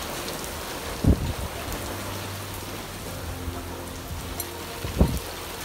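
Steady hiss of rain and wind in a desert monsoon storm. Two short, low gusts hit the microphone, one about a second in and one near the end.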